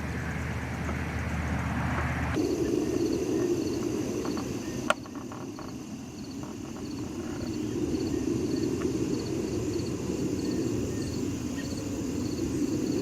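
A steady low engine-like hum cuts off abruptly about two seconds in. After it, insects chirp in an even rhythm, about two chirps a second, over a low rumble, with one sharp click about five seconds in.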